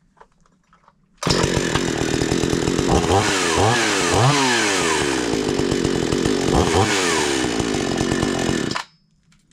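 Gasoline chainsaw running, revved up and down a few times. It comes in suddenly about a second in and stops suddenly near the end.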